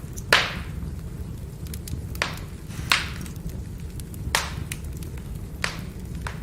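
Firewood burning: a steady low rumble with small crackles, broken by five sharp pops spread over a few seconds.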